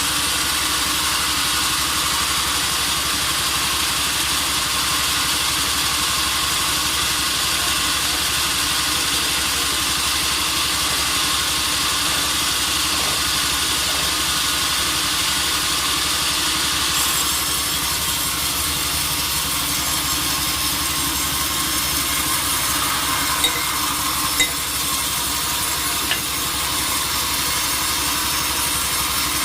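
Sawmill machinery running steadily, a continuous machine hum and hiss with sawing in it; two short knocks near the end.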